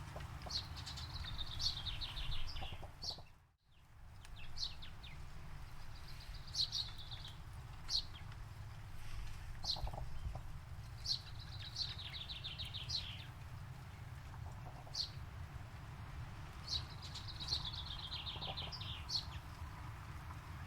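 Forest songbirds singing: short high chirps and descending trilled phrases that repeat every second or two over a steady low rumble. A brief drop to near silence about three and a half seconds in.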